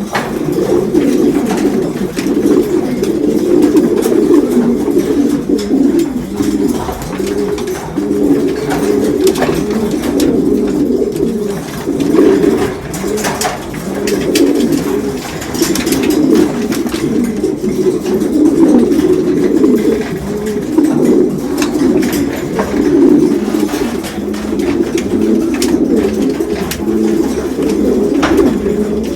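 Many domestic racing pigeons cooing at once in an enclosed loft, a loud, dense, overlapping chorus of courtship cooing from newly paired birds. Scattered sharp clicks and taps sound through it.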